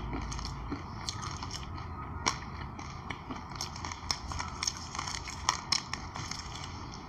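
Close-miked chewing of a mouthful of sesame seeds mixed with passion fruit pulp and anise seed: many small, sharp, irregular crunches and clicks.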